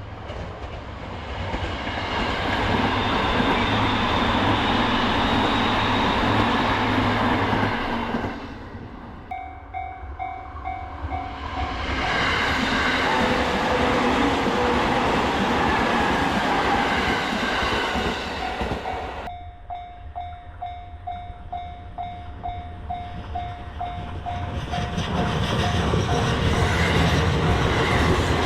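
Trains passing over a level crossing with a loud wheel-and-rail rumble, in three surges with brief lulls between them. In the lulls the crossing's warning bell is heard plainly, ringing about twice a second.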